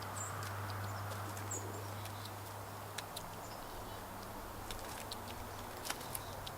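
Scattered sharp clicks and ticks over a steady low hum, with two brief high bird chirps near the start and about a second and a half in.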